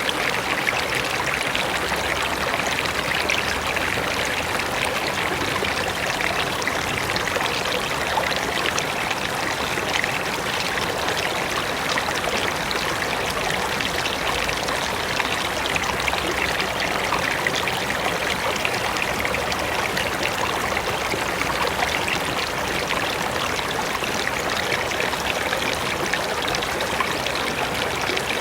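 A mountain river rushing and splashing over rocks, a steady, even water noise without pause.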